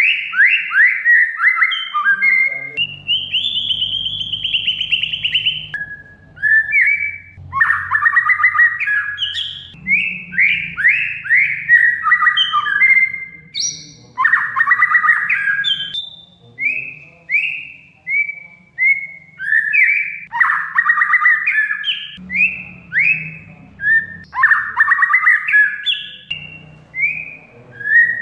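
Oriental magpie-robin (kacer) singing loudly: a quick string of short falling whistles mixed with fast, harsh chattering rattles (cerecetan), with one long held high note about three seconds in.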